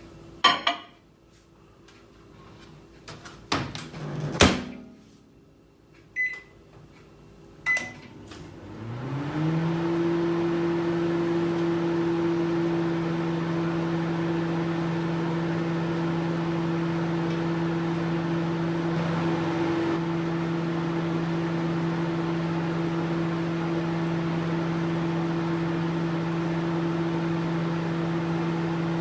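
Microwave oven: a few sharp clunks, two short keypad beeps, then the oven starts with a hum that rises in pitch and settles into a steady running hum.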